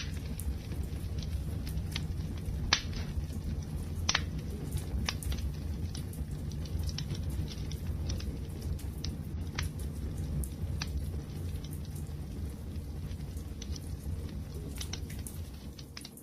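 Wood fire burning with a steady low rumble and scattered crackles and pops, two sharper pops a few seconds in.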